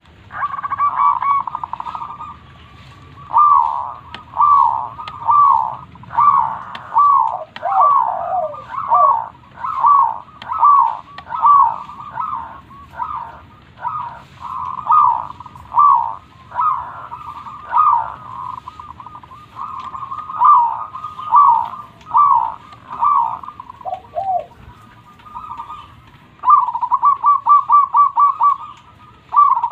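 Zebra dove (perkutut) cooing in a long run of short, falling coo notes, about one or two a second, with a fast run of rapid notes near the end.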